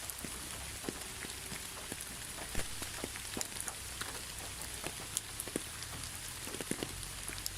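Steady rain falling: a constant hiss with many individual drops clicking sharply on a surface.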